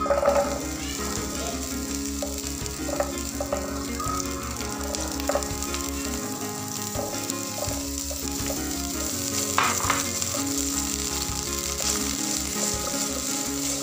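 Pea eggplants and red chillies sizzling in hot soybean oil in a nonstick wok, a steady frying hiss. A few sharp knocks come as more ingredients are tipped in from a plate and a spatula stirs them.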